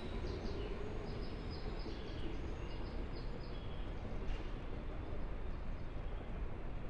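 An Odakyu 5000 series electric train at or near a standstill after braking, its equipment giving a steady low rumble and hum. A run of short, high chirps repeats through the first half.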